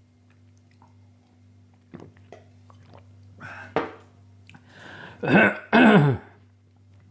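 A man coughing and clearing his throat after food went down the wrong way: a few short coughs building to two loud ones near the end, over a steady low hum.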